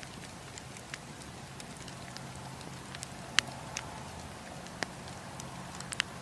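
Campfire crackling: burning wood giving off sharp pops and snaps over a steady hiss, the loudest pop about three and a half seconds in.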